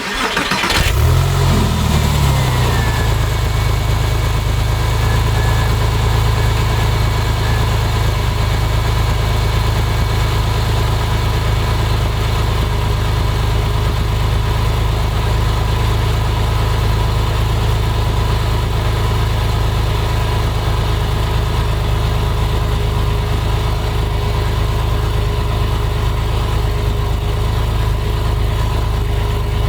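2001 Porsche 911 Carrera 4's water-cooled flat-six starting from cold: it cranks and catches within the first second or two, then settles into a steady idle. A faint high whine falls in pitch shortly after it catches.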